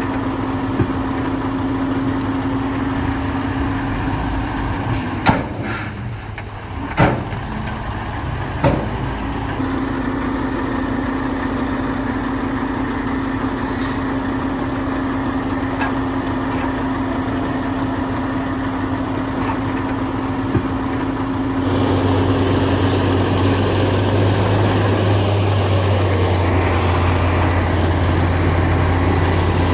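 Diesel engines of heavy earthmoving machinery running steadily, with three sharp metallic clanks a few seconds in. About two-thirds of the way through, a deeper, louder engine joins in.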